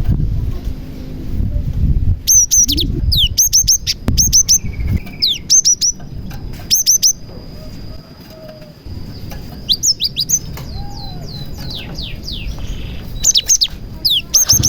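Cinereous tit (gelatik batu) singing in quick clusters of high, sharply falling whistled notes, with short pauses between the phrases. A low rumble runs under the first few seconds.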